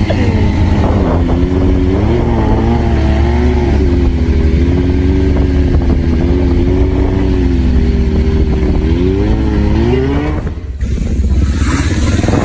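Suzuki sportbike engine held at steady revs through a wheelie, its pitch easing up and down with the throttle and climbing near the end. About ten and a half seconds in it breaks off briefly, then another motorcycle engine takes over.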